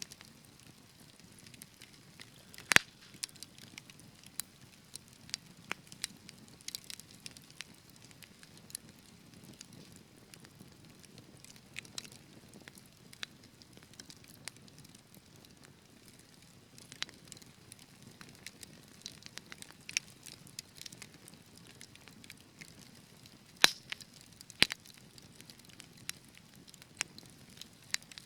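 Fire crackling in a fireplace: irregular small crackles over a soft low rumble of flames. A few sharper pops stand out, one about three seconds in and two about a second apart near the end.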